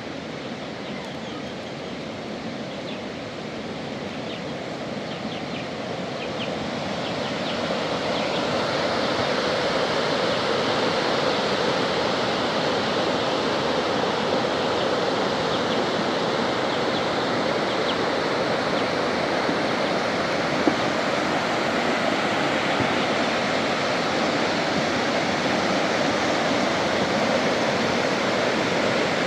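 Steady rushing of water in a storm, growing louder over the first several seconds and then holding steady, with a few faint ticks early on.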